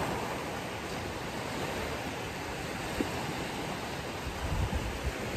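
Ocean surf washing onto a beach: a steady rush of waves, swelling a little lower and louder near the end.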